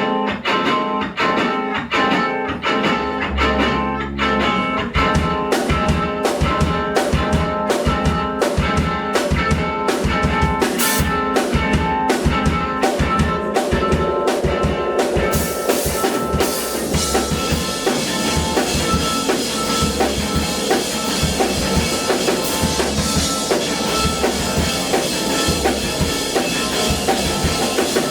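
Live band playing a song built on about one chord, electric guitar over a drum kit with a steady beat; the sound thickens, with more cymbal, about halfway through.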